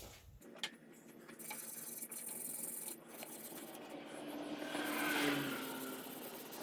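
Wire brush scraping on the aluminum housing of a small Honda trash pump, growing louder around the five-second mark.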